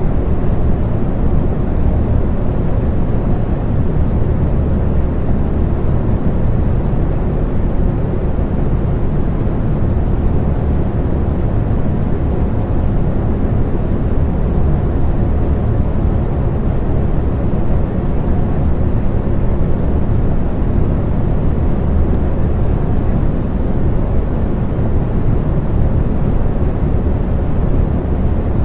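Electric fan running steadily: an even, deep rush of air with a low hum under it, unchanging throughout.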